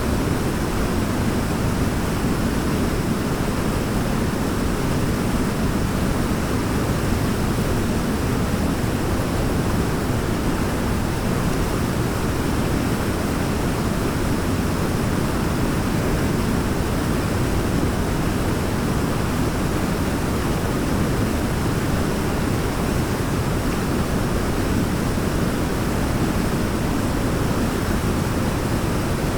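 Waterfall falling steadily: a continuous, even rush of water, heaviest in the low range.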